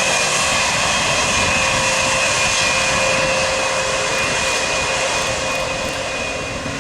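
Jet aircraft engines running loud: a steady noise with high, steady whining tones, easing off slightly after about three and a half seconds.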